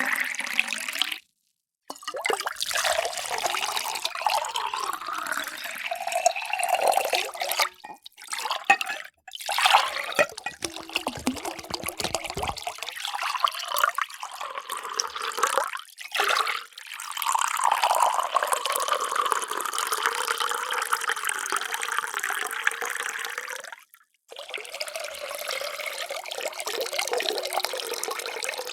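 Water pouring into drinking vessels. Several separate pours are joined by brief cuts to silence, each with the hollow ringing tone of the vessel filling.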